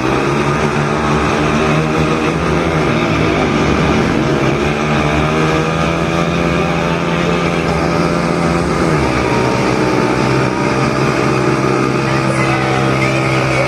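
Motorcycle engines running, the revs rising and falling in the middle.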